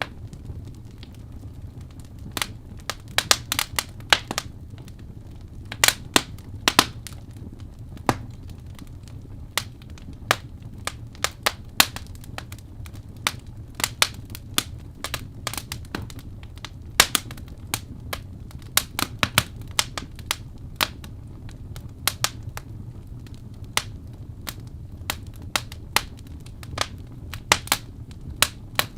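Wood fire burning in a fireplace: irregular sharp crackles and pops of the burning wood, sometimes several close together, over a steady low rumble.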